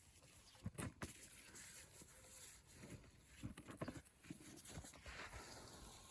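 Near silence, with a few faint scattered knocks and rustles.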